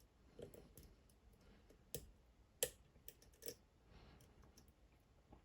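Faint, scattered clicks of a lock pick working the pins inside a Dom IX Twinstar, a lock with two rows of pins and an interactive element; one click a little past halfway stands out louder than the rest.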